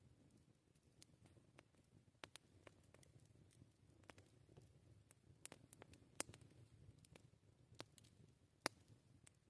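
Wood campfire crackling: scattered sharp pops and snaps at irregular intervals over a faint low background, the loudest pops about six seconds in and near the end.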